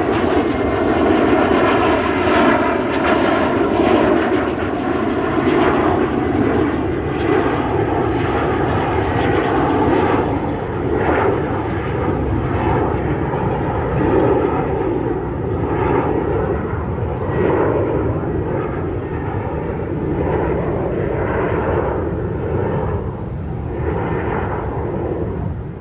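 Jet airliner's engines on approach: a loud, steady rumble with several held whining tones, its high end slowly growing duller.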